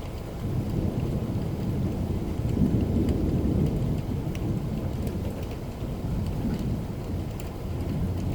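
Thunder rumbling over steady rain: the low rumble swells about a second in, is loudest around three seconds, then eases off and rises a little again near the end, with faint ticks of individual drops above it.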